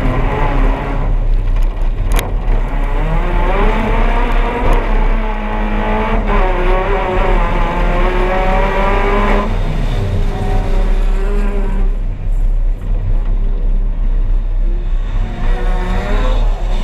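Race car engine run hard, heard from the car itself: its pitch climbs in several runs, each cut off by a gear change. It eases off after about nine seconds and climbs again near the end, with a sharp click about two seconds in.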